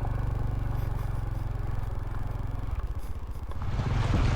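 Honda CT125's small single-cylinder engine running at low trail speed, with clattering and rattling as the bike bounces over roots and uneven ground. The engine note changes a little under three seconds in, and the rattling grows louder near the end.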